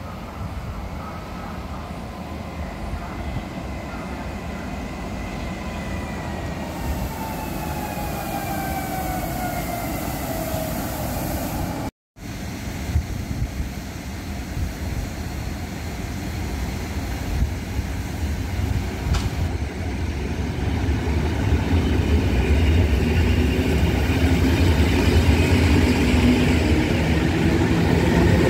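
Electric multiple unit running on the rails, its electric drive giving a whine that falls slowly in pitch. After a cut, a second electric multiple unit approaches with a rail rumble that grows steadily louder.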